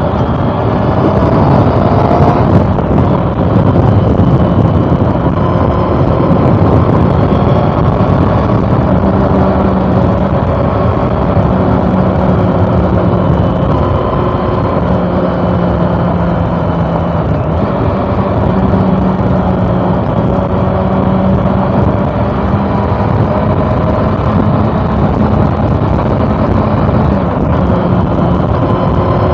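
Honda CB400 Super Four Revo's inline four-cylinder engine running at a fairly steady cruise, its pitch holding level with small rises and dips, over a steady rush of road and wind noise.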